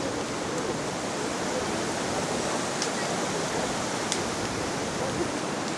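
Steady rush of flowing water from a river or falls, with two faint high ticks about three and four seconds in.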